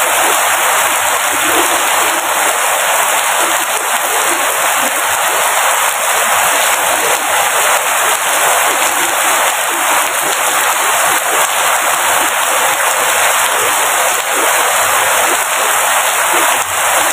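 Steady heavy rainfall, an even dense hiss of rain falling without let-up.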